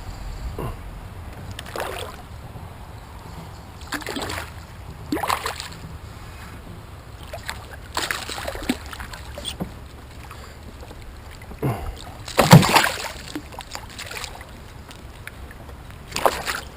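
Kayak paddle strokes splashing in the water at uneven intervals, about eight in all, the loudest about three-quarters of the way through.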